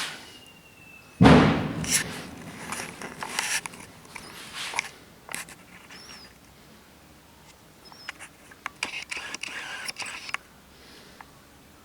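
Work noises from repairing a chair: a loud knock about a second in, then scattered clicks and taps, and a stretch of rustling and scraping near the end.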